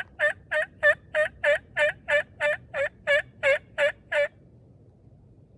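Turkey yelping: a long, loud series of evenly spaced yelps, about three a second, ending about four seconds in.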